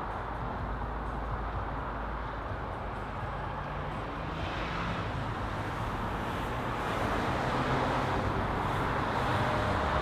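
Car being driven on the road: steady road and engine noise that grows a little louder near the end.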